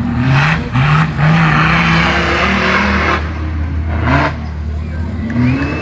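Off-road 4x4 engine revving hard several times, its pitch climbing with each rev, under a loud rushing noise during the longest push.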